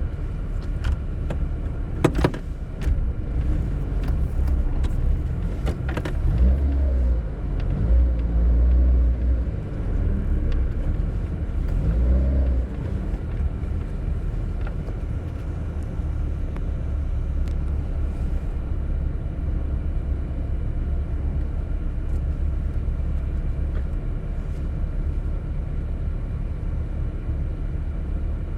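A car driving, its steady low engine and road rumble heard from inside, with a few sharp clicks in the first few seconds and a rise and fall in engine pitch midway.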